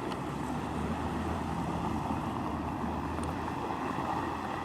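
Steady street traffic noise: a low vehicle hum under a rushing haze, with wind on the microphone.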